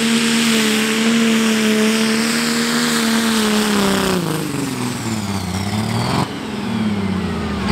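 Pro Stock pulling tractor's single-turbo diesel engine running flat out at steady high revs; after about four seconds the revs fall away, with a high whistle sliding down as the engine backs off.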